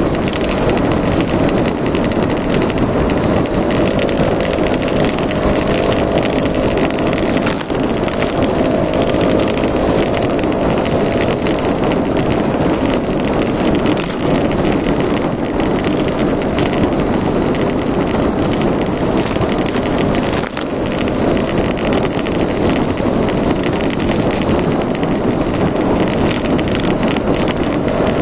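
Yamaha Majesty S 155 scooter's single-cylinder four-stroke engine running steadily while being ridden, with wind rushing over the microphone; the engine briefly drops off twice.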